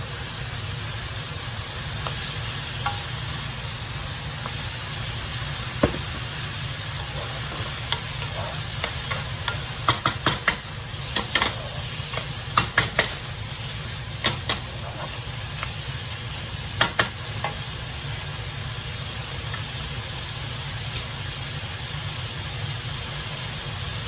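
Chopped beef with onion and chilies sizzling in a hot nonstick pan, stirred with a wooden spatula. The spatula knocks and scrapes against the pan in a run of sharp clacks from about six to seventeen seconds in.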